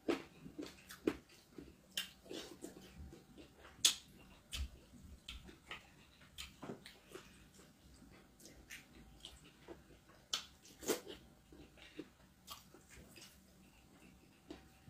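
Close-miked mouth sounds of eating chicken and fufu by hand: wet chewing, lip smacks and irregular sharp clicks, the loudest about four seconds in and again near eleven seconds.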